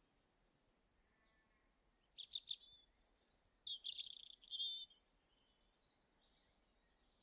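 A songbird singing in woodland: a phrase of high, quick chirps and short trills starting about two seconds in and lasting nearly three seconds, with fainter calls before and after over a quiet background.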